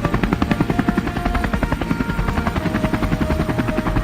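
Cartoon helicopter sound effect: rotor blades chopping in a fast, even beat.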